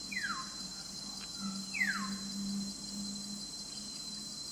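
Crickets or other insects trilling steadily at a high pitch, with two short falling whistles about a second and a half apart, the first near the start, and a faint low hum under them.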